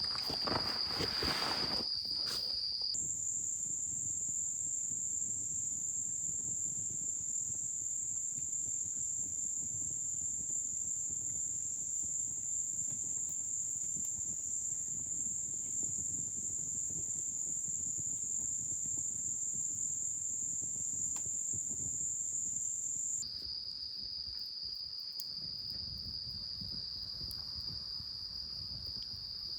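A steady chorus of crickets and other autumn insects, a continuous high-pitched trill. Its pitch jumps higher about three seconds in and drops back lower about seven seconds before the end. Faint rustling, like footsteps in leaves, comes in the first couple of seconds.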